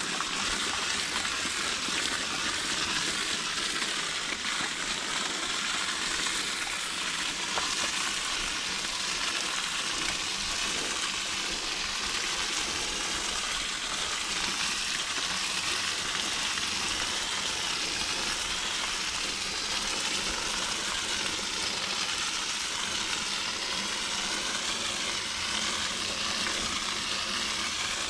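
Water from a garden hose spray nozzle hitting the coil fins of an air-conditioner condenser, a steady hiss.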